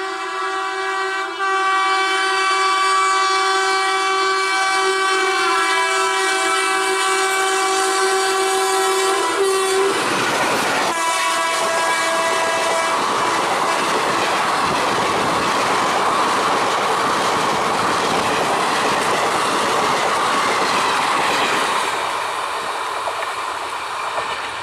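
Indian Railways electric locomotive sounding a long, steady multi-note horn for about ten seconds as it approaches, dropping slightly in pitch partway before cutting off. Then the passenger coaches pass close by with a continuous wheel rumble and clickety-clack, fading near the end as the train draws away.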